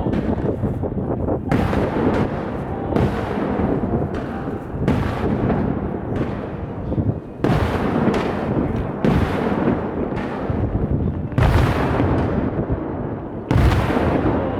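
Fireworks display: aerial shells bursting in quick succession, each boom trailing off in a rumbling echo. The loudest bursts come near the end.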